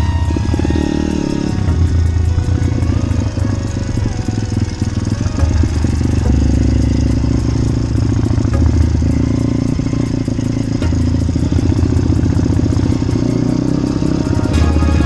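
Motorbike engine running steadily while riding, its note stepping up and down every few seconds with the throttle.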